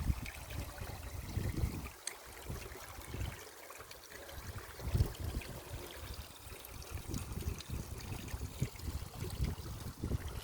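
Water flowing in a stream, a steady rushing trickle, with irregular low gusts of wind buffeting the microphone that ease off for a couple of seconds near the start.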